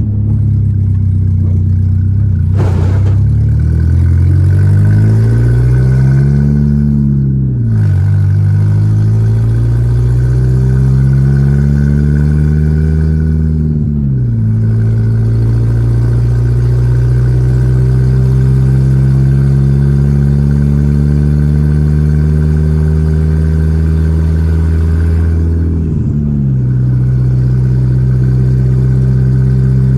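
Volkswagen Gol G4 Rallye's four-cylinder engine pulling through the gears: its pitch climbs, then drops sharply at each of three upshifts, and it runs steady near the end. A short knock sounds about two and a half seconds in.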